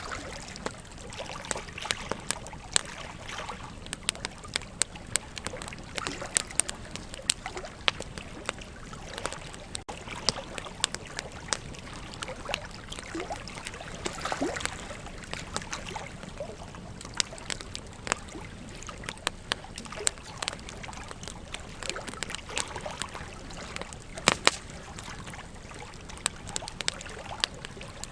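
Wood campfire crackling, with frequent sharp irregular pops and a few louder snaps, over a steady rush of river water.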